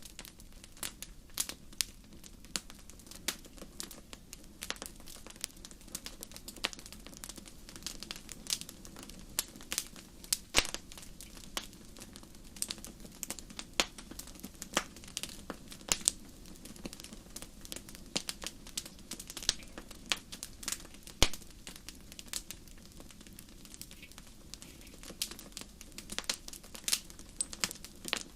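Wood fire in a fireplace crackling: irregular sharp pops and snaps, several a second, over a steady low rush from the flames.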